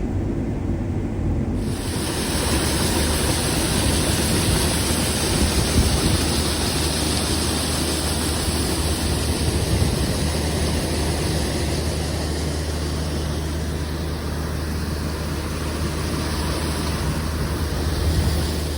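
Heavy machinery engine running steadily, a low drone under a broad rushing noise that grows brighter about a second and a half in.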